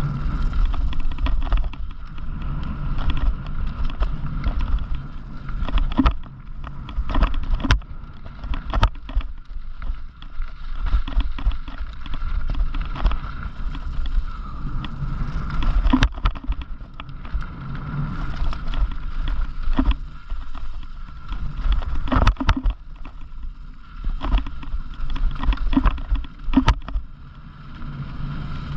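Mountain bike on a rough dirt trail: wind buffeting the camera microphone and tyres rumbling over the ground, with sharp knocks and clatter from the bike over bumps.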